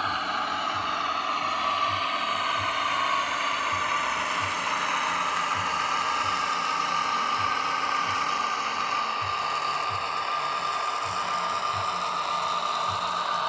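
N gauge model Class 60 diesel locomotive running, its DCC sound decoder playing the diesel engine sound through a tiny speaker over the whir of the model's motor and gears. A steady whine climbs slightly in the first few seconds, with a regular low beat about one and a half times a second.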